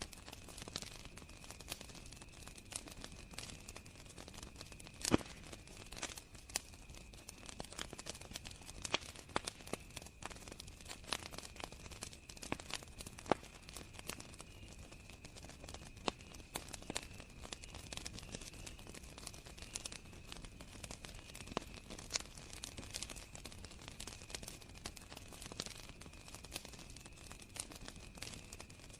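Wood campfire crackling, with irregular pops and snaps and a louder pop about five seconds in, over a steady high trill of crickets.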